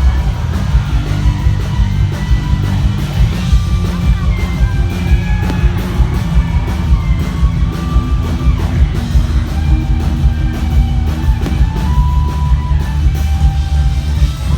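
A live rock band playing loudly through a PA system, with heavy bass, steady drum beats and a singing voice, and a crowd yelling along.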